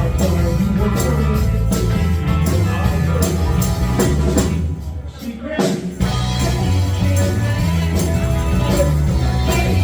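Live rock band playing, with a heavy bass line and drums. About halfway through, the band stops for a beat of roughly a second and a half, then comes crashing back in.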